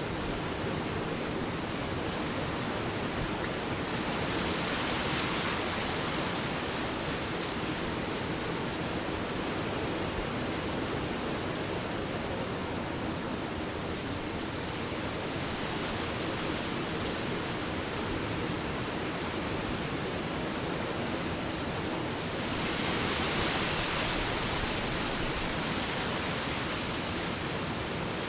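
Ocean waves washing onto a beach, a steady rushing hiss with two louder waves breaking and fizzing, about four seconds in and again about 22 seconds in.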